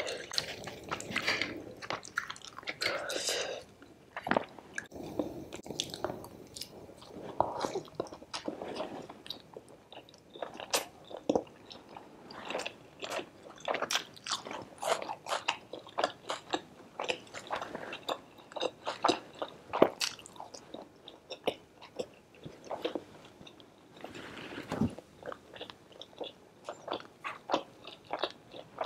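Close-up eating sounds: chewing and crunching of crispy fried puri with chicken curry, full of irregular wet mouth clicks and smacks.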